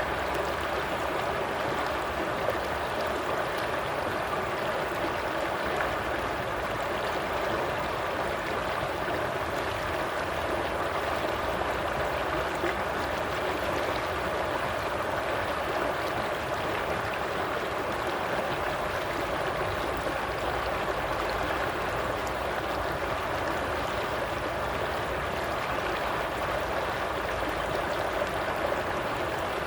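Flowing stream water running steadily, an even rush with a faint gurgle.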